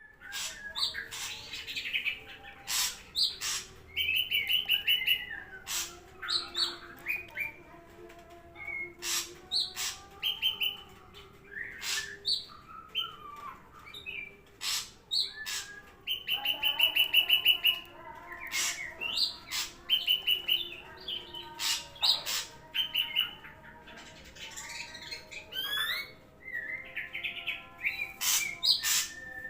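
Ashy drongo singing a varied, continuous song: sharp snapping clicks, short rising whistles and rapid rattling trills, one after another with short gaps.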